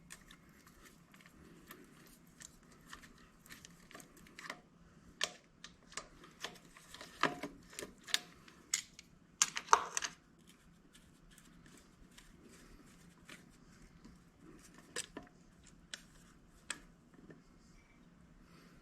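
Hand tools clicking and clinking as a fuel filter housing and its fuel lines are loosened on a Ford 545A backhoe engine. The sharp, irregular clicks are sparse, come most often in the middle with a quick cluster about halfway through, then thin out to a few.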